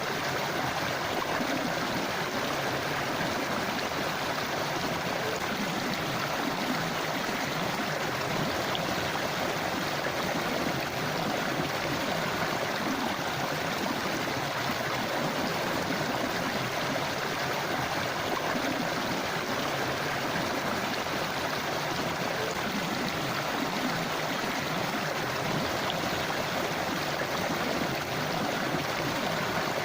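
A river or stream flowing steadily over rocks: an even, continuous rush of water with no change throughout.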